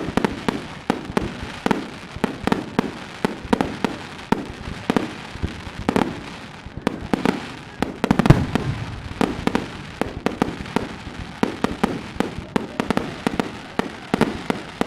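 Fireworks going off in a rapid, irregular string of sharp cracks and bangs, several a second, with a louder, deeper boom about eight seconds in.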